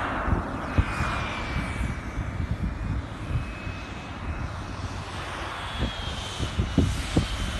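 The electric ducted-fan whine of a Freewing F-22 radio-controlled jet in flight: a thin high tone that slides down in pitch, then a second, higher tone that also falls. Wind gusts buffet the microphone with low rumbling and thumps, strongest near the end.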